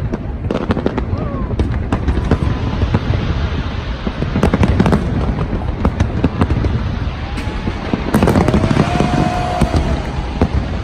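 Fireworks display going off, with a dense run of sharp bangs and crackles over a constant low booming rumble.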